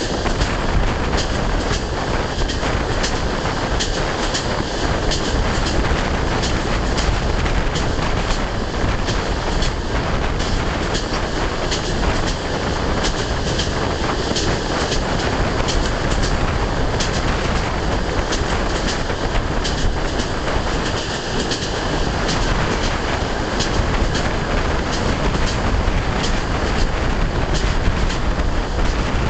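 Passenger train on the Trans-Siberian line running at speed, heard from the carriage: a steady, loud rush of wheels on rails with many sharp clicks from the track throughout.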